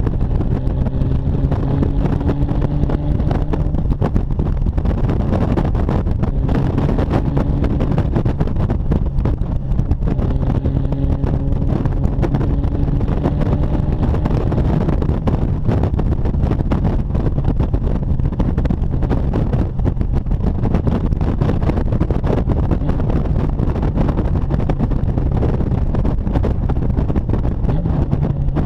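Exhaust of a 2013 Honda Gold Wing GL1800's flat-six through a homemade custom exhaust, pulled hard at wide open throttle. It rises in pitch in several pulls in the first half, then runs steadily.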